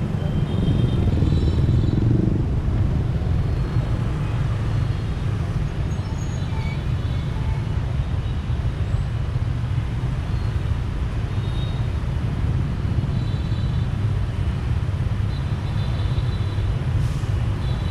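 Steady road noise from a motorbike riding through city traffic: a constant low rumble of engine and wind, with faint higher tones from surrounding traffic here and there.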